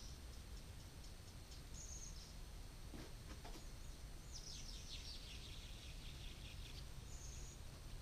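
Quiet outdoor ambience with a low rumble and a small songbird calling: short high chirps about two seconds in and near the end, and a fast descending trill around the middle. Two faint knocks come about three seconds in.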